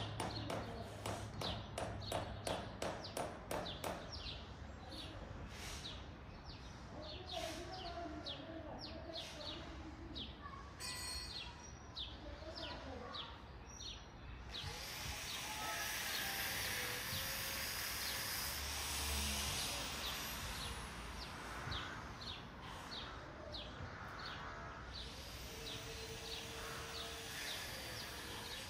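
Birds calling from the trees, with rapid repeated short notes over the first few seconds and sparser calls after. From about halfway a broad, even rushing hiss rises and carries on under the calls.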